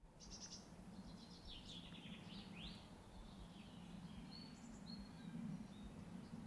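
Faint outdoor birdsong: several short chirps and quick trills, most in the first half, over a steady low background hum.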